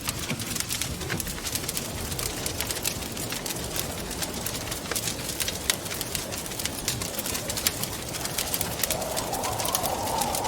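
Wood fire crackling with many sharp pops over a steady rush of wind. Near the end the wind rises into a low moaning tone.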